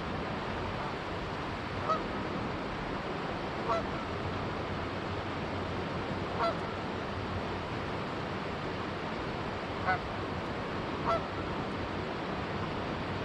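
Canada geese giving five short, single honks spaced a few seconds apart over the steady rush of a flowing river.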